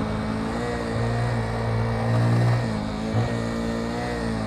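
Motorcycle engine running under way at a fairly steady speed, its note wavering slightly and rising a little near the end.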